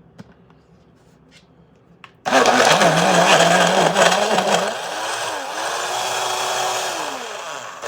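Personal blender switching on about two seconds in and running loudly, blending ice cream and milk into a milkshake. The motor sound eases a little about halfway, its pitch wavering as it churns the thick mix.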